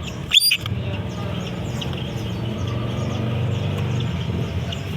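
Many caged songbirds chirping and calling, with one loud, sharp call about half a second in, over a steady low rumble of traffic or an engine.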